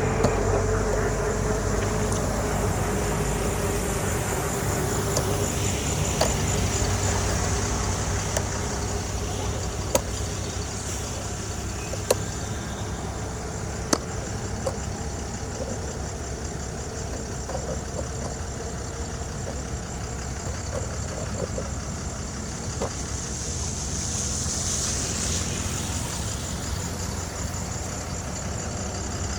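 Engine of heavy machinery running steadily. Three sharp knocks about two seconds apart come near the middle.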